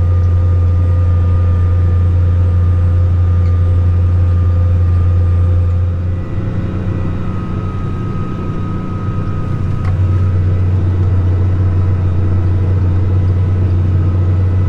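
Tractor engine running steadily under load while pulling a field cultivator, a strong low drone with a steady whine above it. It eases off slightly about six seconds in and comes back up about four seconds later.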